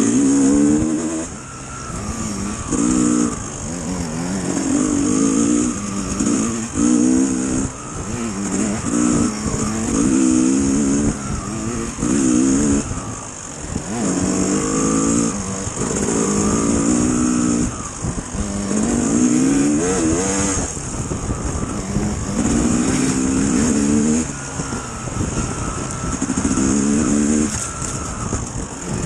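Dirt bike engine being ridden, revving up and easing off over and over every few seconds as the throttle is worked.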